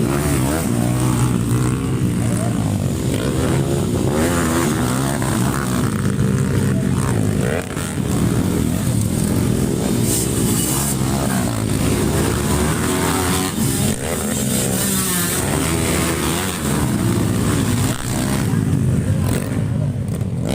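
Several off-road racing motorcycles running on a dirt track, their engines revving up and down continuously as the bikes accelerate, shift and pass one another.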